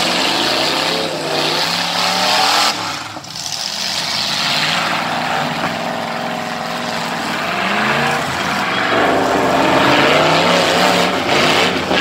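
Engines of full-size cars, SUVs and trucks revving hard, their pitch repeatedly rising and falling.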